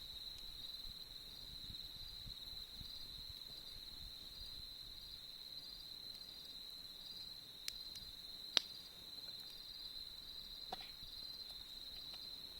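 Crickets chirping steadily in a high, pulsing trill, with three sharp pops from a wood campfire in the second half, the middle one the loudest.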